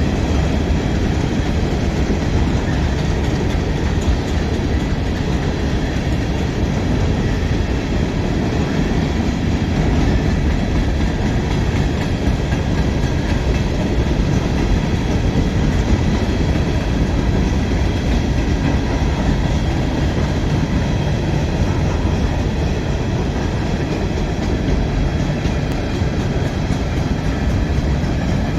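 Train rolling past: a steady rumble of railcar wheels on the rails, with a faint high ringing over it.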